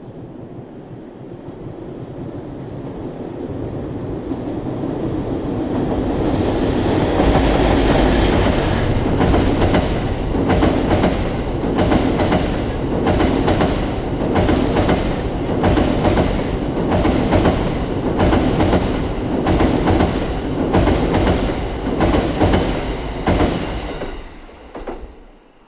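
A train approaching and passing close by at speed, its wheels clattering over rail joints in a steady clickety-clack for most of the pass. The sound builds over the first several seconds and dies away quickly near the end as the last car goes by.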